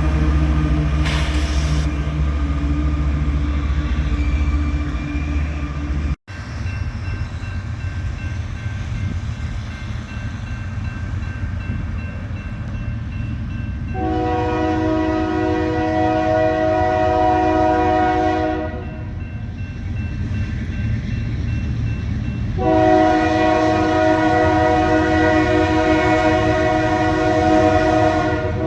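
A diesel locomotive's engine rumbling, then, after a sudden cut, a train rolling by while a locomotive's multi-chime air horn sounds two long blasts: one of about five seconds around the middle and a longer one near the end.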